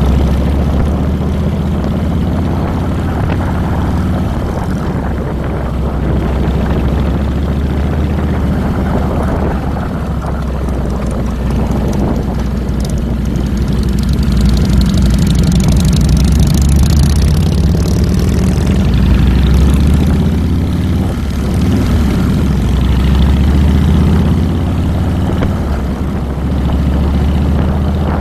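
Harley-Davidson Fat Boy's Twin Cam 96 V-twin engine running, a loud, steady low rumble whose level rises and falls a little.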